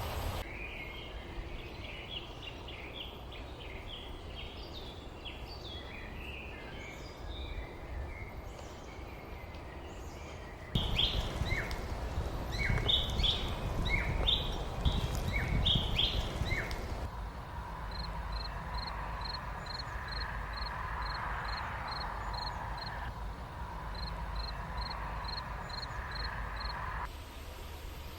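Small songbirds chirping and calling over a low outdoor background, in several segments that change abruptly. A louder burst of chirps with a low rumble comes about 11 seconds in, and later one bird repeats a short high note about twice a second.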